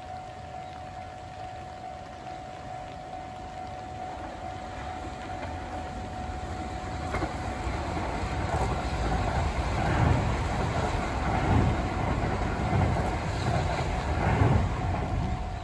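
JR West limited express electric train running past on curved track, growing louder as it nears. Near the end come low thuds about a second apart as its wheels pass over the rail joints. A steady high tone sounds through the first half and stops about halfway.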